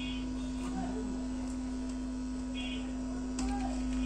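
Steady mains hum from a 16-inch speaker driven by a just-powered 16-transistor amplifier board with no signal playing; it gets slightly louder a little past three seconds in. The builder says the hum comes from the volume control not yet being set up and will go once it is.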